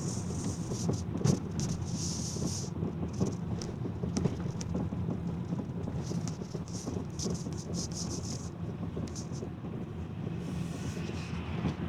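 Chevrolet Cruze suspension knocking while driving, irregular short knocks over steady road noise, with the car not yet warmed up in freezing cold.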